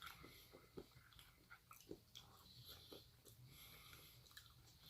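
Faint chewing and mouth sounds of someone eating: soft, scattered smacks and small clicks over a low room hiss.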